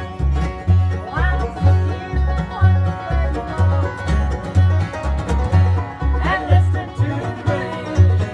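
Bluegrass jam band playing an instrumental: banjo, guitar and fiddle over a steady bass line of about two notes a second, with fiddle slides around a second in and again past six seconds.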